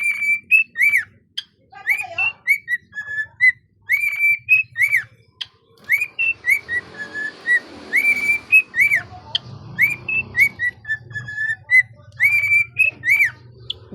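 Cockatiel whistling its song: a long string of short, clear whistled notes, many rising then falling, with brief pauses between phrases.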